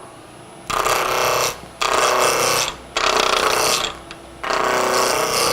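Woodturning gouge cutting into a square block of hard maple spinning on the lathe, roughing it round: four separate passes of about a second each with short pauses between.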